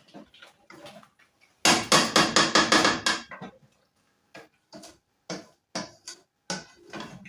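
A cooking spoon knocking and scraping against a sufuria while rice is stirred. About two seconds in comes a loud, rapid run of strikes for a second and a half, then single knocks about every half second.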